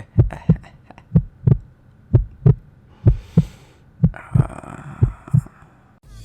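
Heartbeat sound effect, a steady lub-dub of low double thumps about once a second, the kind used in first-person shooters to signal a badly wounded player.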